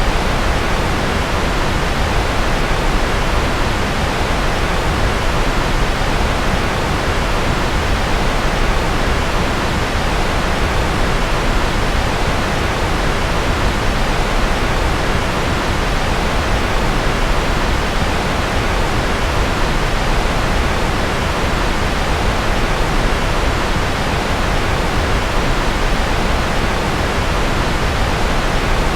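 Steady, unchanging rocket-engine-style white noise from a sleep track: an even hiss over a deep rumble, with no tones, pulses or changes.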